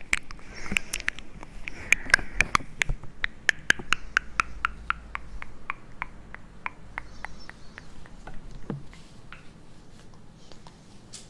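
A quick run of sharp close-up clicks and taps, several a second, thinning out in the last few seconds, with a single low knock near the end.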